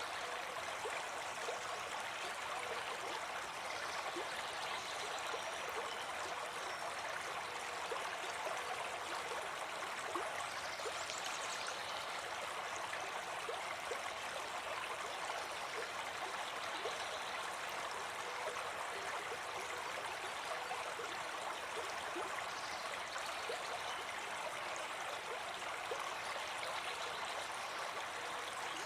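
River water flowing steadily over rocks, a continuous even rushing with scattered small splashes.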